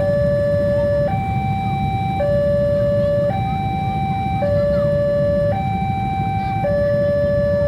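Two-tone warning alarm alternating steadily between a lower and a higher pitch, each held about a second, over a continuous low rumble. This fits a railway level-crossing alarm sounding while a long train passes.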